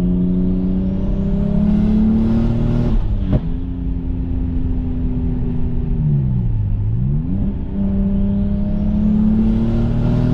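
BMW 135i's N54 inline-six, converted to a single turbo, pulling through the gears: revs climb with a rising high whine, break off sharply at a shift about three seconds in, dip and climb again around six to seven seconds, then climb once more with the whine rising near the end.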